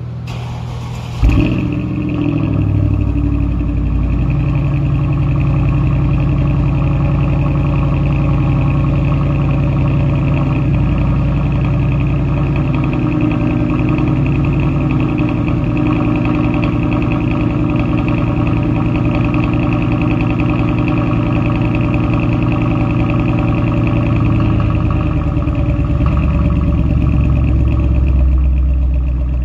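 2006 Mercedes CLS55 AMG's supercharged 5.4-litre V8 starting up with a brief rev flare about a second in, then idling steadily through the exhaust. The idle settles to a lower, deeper note in the second half.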